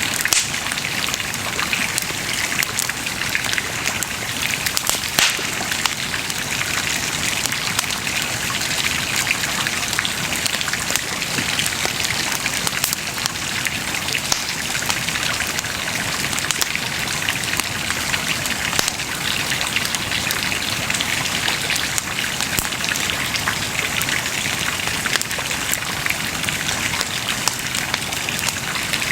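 Wood bonfire crackling steadily: a constant hiss with many small, sharp pops.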